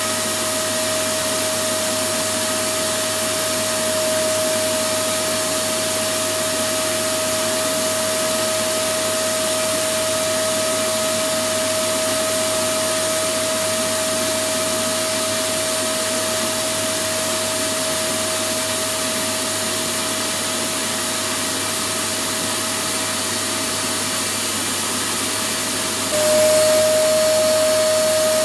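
Electric vacuum cleaner running steadily: an even rush of air with a steady motor whine. Near the end the whine jumps slightly higher and the sound gets a little louder.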